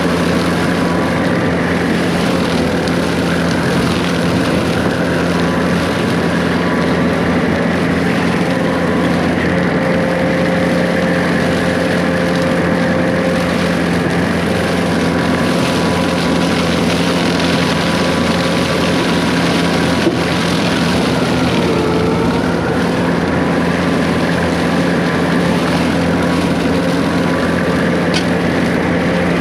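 Case 140 excavator's diesel engine running steadily under work, a constant drone with no pauses.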